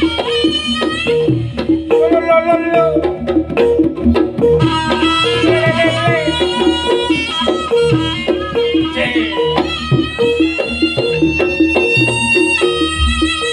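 Live Javanese jaranan dance music. Gamelan metallophones play a fast repeating pattern of notes over drums, with a long, high held melody line above.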